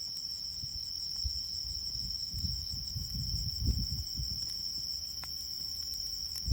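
A cricket-like insect trilling in one steady, unbroken high-pitched tone, with a few faint crackles from a wood fire and low rumbling underneath.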